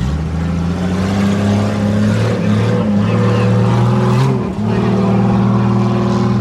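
A tuff truck's engine running hard at high revs over an off-road course, with a sharp drop in revs about four and a half seconds in before it picks up again and holds.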